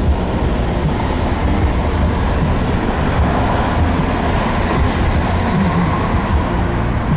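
Road noise inside a moving car: a steady low rumble of tyres and engine at highway speed.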